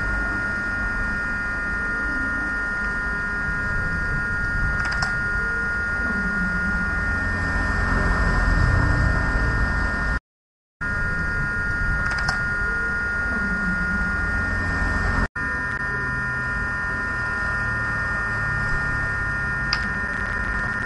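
Steady electrical whine with a low hum and background noise. It drops out to silence for about half a second near the middle and is broken by a single click a few seconds later.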